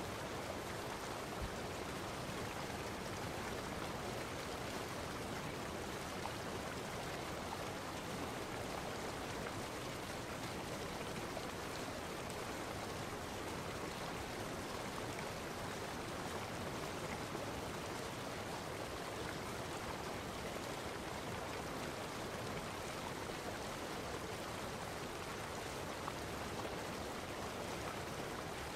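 Steady, unchanging rush of flowing water.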